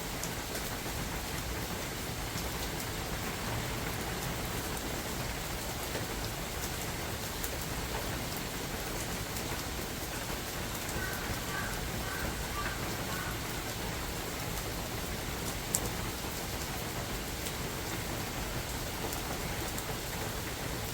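Steady rain falling in a forest: a constant hiss with scattered ticks of single drops, and one sharper drip tick about sixteen seconds in.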